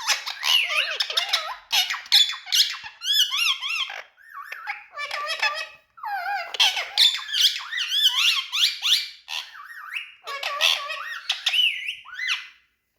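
Indian ringneck parrot chattering and squawking in rapid warbling, wavering calls, with brief pauses about four and six seconds in.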